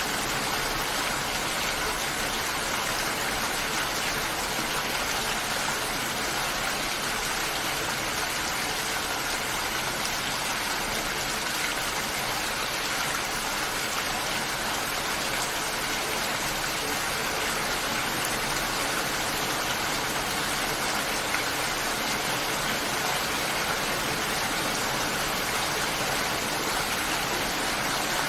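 Steady, even rain hiss, with no single drops or thunder standing out.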